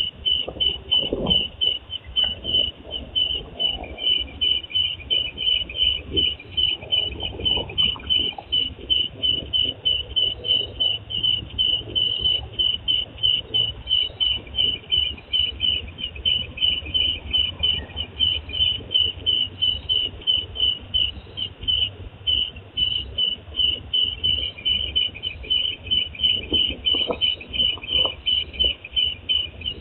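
A night insect chirping in an even, unbroken rhythm, a high pulsed call repeating about two to three times a second, over a faint low rumble.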